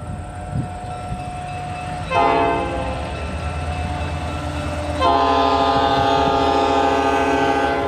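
Diesel locomotive air horn sounding a chord of several tones over the low rumble of diesel locomotives: a short blast about two seconds in, then a long blast from about five seconds on. These are the horn signals of a freight train getting under way.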